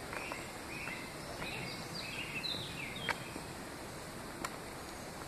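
Woodland birds calling: a string of short, high whistled notes, some held level and some falling, over a steady outdoor hiss. Two sharp clicks come about three and four and a half seconds in.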